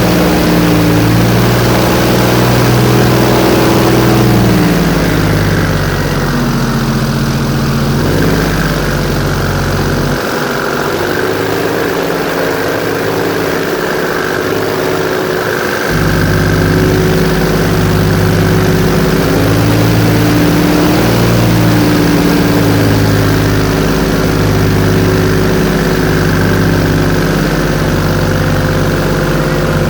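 Airboat's engine and propeller running loud. The pitch shifts down several times in the first half, then holds even from about sixteen seconds in.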